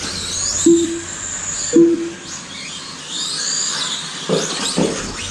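Several radio-controlled racing trucks' electric motors whining, rising and falling in pitch as they speed up and slow down around the track. Short low knocks and thuds come now and then as the trucks land or hit the track.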